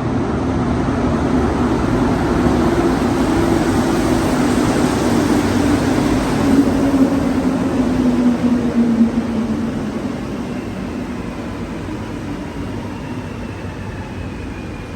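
A rubber-tyred metro train passing through the station. Its rumble and low droning hum build to a peak about halfway through and then fade away, with a faint falling whine near the end.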